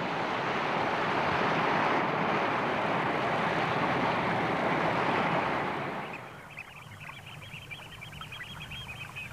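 A steady rushing noise that fades away about six seconds in, followed by a fainter, fast, even high-pitched trill that carries on to the end.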